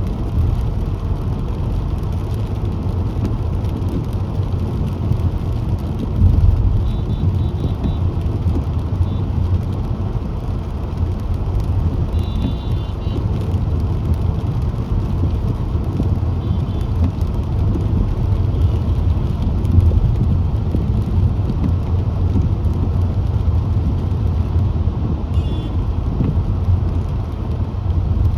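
Steady road noise of a car driving, a low rumble of engine and tyres with traffic around it, and a few faint, short high tones now and then.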